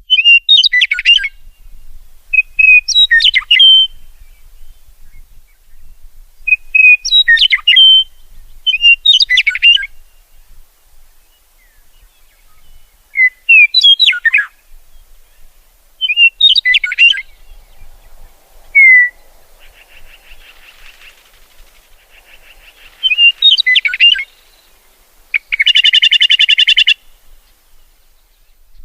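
Songbirds singing: short, sharp chirping phrases repeated every two to three seconds. A faint buzzy trill comes about two-thirds of the way through, and a loud, rapid buzzy trill near the end.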